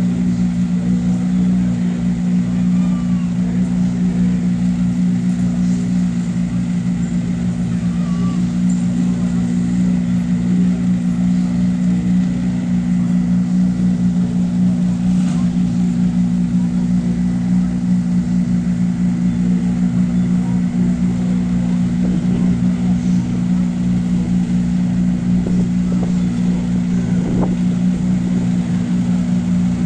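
Rally car engine idling steadily, a constant low hum that does not rise or fall.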